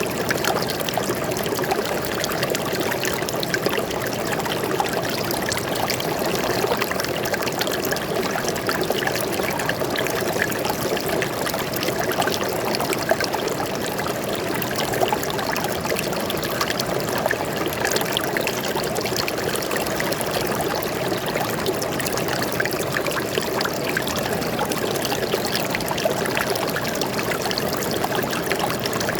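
Stream water flowing and trickling over rocks, a steady, unbroken babble.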